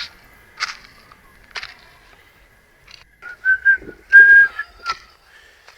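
Whistled notes: two short ones, then a louder, longer held note. Before them come a few brief noisy sounds.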